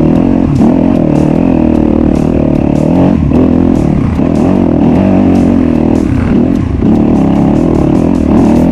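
Off-road enduro motorcycle engine running under load, its pitch rising and falling with the throttle and dropping briefly a few times, with scattered clicks and knocks from the bike over rough ground.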